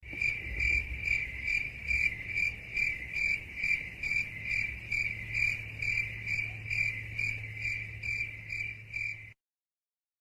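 Crickets chirping in a steady, even rhythm, a little over two chirps a second, with a low hum beneath; it cuts off suddenly near the end. This is the stock 'crickets' sound effect used in memes to mark an awkward silence.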